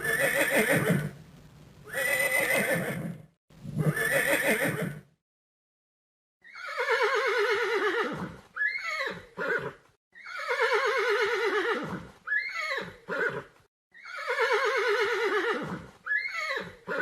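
Horse whinnying: a few shorter calls, then the same long whinny three times over, each with a shaking pitch that falls away at the end.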